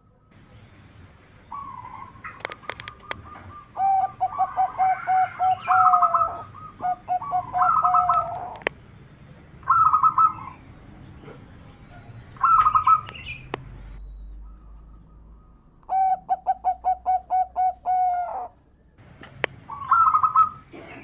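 Zebra dove (perkutut) song: bursts of quick staccato cooing notes in rapid series lasting about two seconds, with shorter phrases in between and a few sharp clicks.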